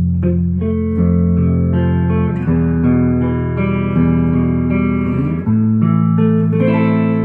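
A freshly refretted 1966 Gretsch 6120 Nashville hollow-body electric guitar being played: chords are struck and left to ring, changing every second or two, with a slight waver in pitch in the middle.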